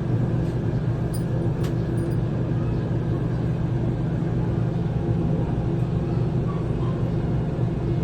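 Steady low mechanical hum with a constant droning tone inside an enclosed Ferris wheel gondola as the wheel turns, with a few faint clicks about a second in.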